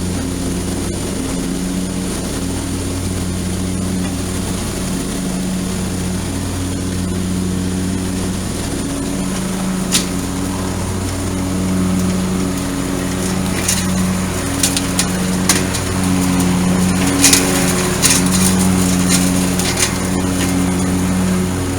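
Cub Cadet LTX 1046 KW lawn tractor's Kawasaki engine running steadily while mowing. A scattering of sharp ticks and clatters cuts in once about ten seconds in, then more often in the second half.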